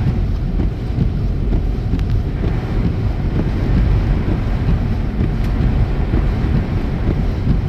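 Steady road noise inside a moving car: a low rumble of tyres and engine while cruising on the highway.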